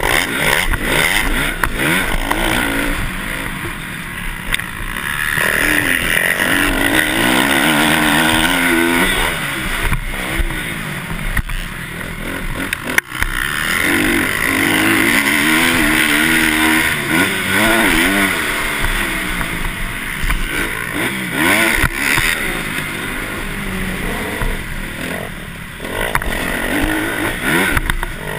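Motocross dirt bikes riding the track, their engines revving up and easing off again and again, so the pitch rises and falls repeatedly.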